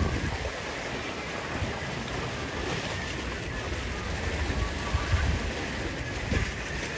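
Seaside wind buffeting the microphone over the wash of sea water, an uneven low rumble with no clear rhythm.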